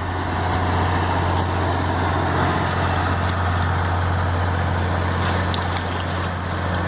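Engine of a local passenger ferry boat running steadily, a low even drone with no change in pitch.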